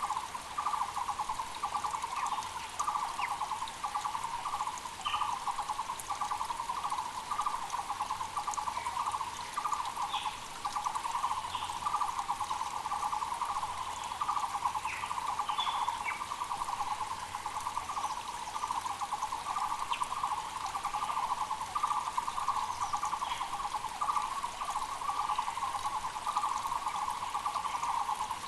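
Muller's barbets calling nonstop: rapid runs of repeated notes at one pitch, several birds overlapping so the calling never breaks. Other small birds add short, scattered high chirps over it.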